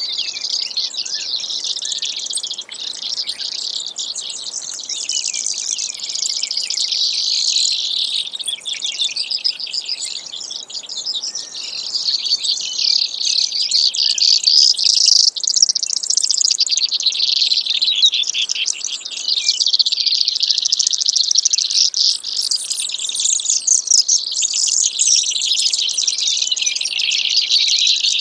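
Brewer's sparrow singing: a long run of rapid, high trills that shift in speed and pitch without pause.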